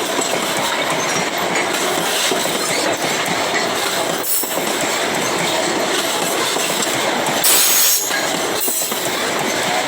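Freight train cars rolling past on the rails with a steady rumble and rattle of wheels over the track. About seven and a half seconds in comes a brief, louder, shrill high-pitched burst, like wheel squeal.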